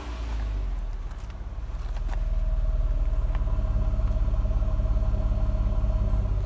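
Nissan Maxima's 3.5-litre V6 engine running at raised revs. The sound builds about two seconds in and then holds as a steady, even drone.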